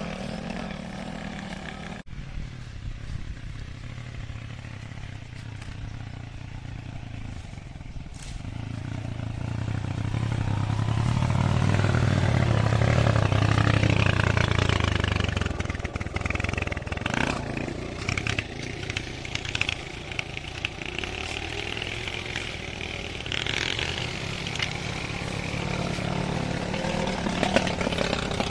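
Motorcycle engine running, growing louder to a peak about halfway through, then easing off into an uneven, varying run.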